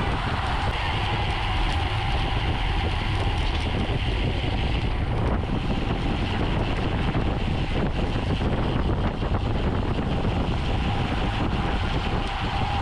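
Steady wind noise buffeting the microphone of a camera riding on a racing bicycle at speed, with a low rumble of tyres on the road.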